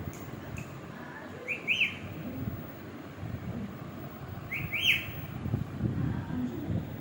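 Ringneck parrot whistling: two short phrases about three seconds apart, each a quick pair of high notes that sweep up and down.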